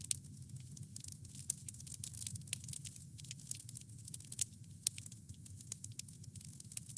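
Campfire of burning wood crackling, with many sharp irregular snaps and pops over a steady low rumble of the flames.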